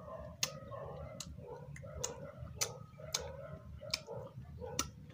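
Wet mouth smacks and clicks of someone chewing juicy watermelon, a sharp smack every half second to a second at an uneven pace.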